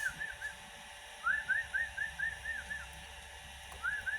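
Bouts of short, arched whistled notes, about six a second at a steady pitch. One bout trails off just after the start, a full bout of about eight notes comes in the middle, and another begins near the end.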